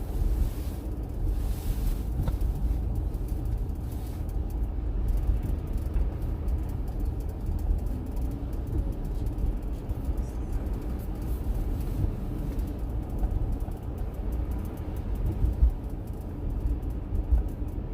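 A car on the road: a steady low rumble of engine and tyre noise.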